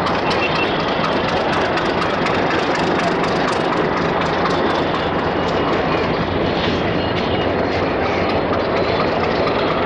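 Passenger train hauled by a diesel-electric locomotive rolling through curved points and crossings, its wheels clattering steadily over the switches and rail joints, with the locomotive engine running underneath.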